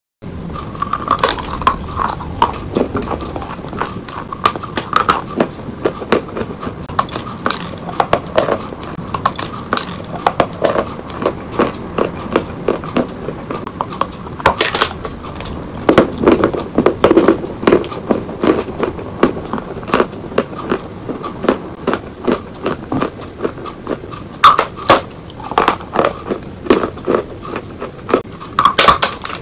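Close-miked crunching and crackling as a hard lump of dry clay is bitten off and chewed. The crunches come in quick irregular runs, with the loudest clusters about halfway through and again in the last few seconds.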